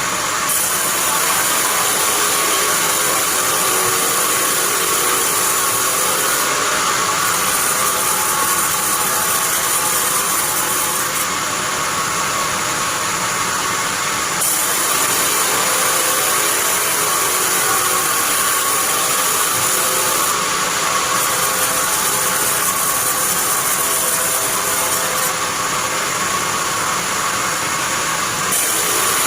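Band sawmill running and its blade sawing pine: a loud, steady mechanical hiss and hum whose high edge shifts every few seconds.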